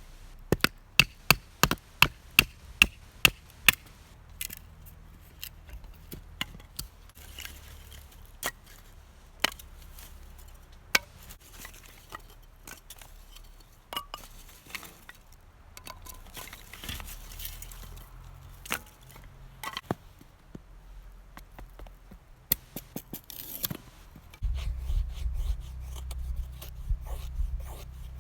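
Firewood being split with a blade: a quick run of sharp chopping knocks, about three a second, for the first few seconds, then scattered knocks and scraping of wood. A low rumble comes in near the end.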